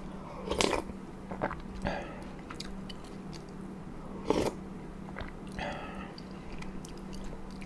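Close-miked eating: a person chewing and biting food, with a few short, sharp mouth noises, the loudest about four and a half seconds in, over a steady low hum.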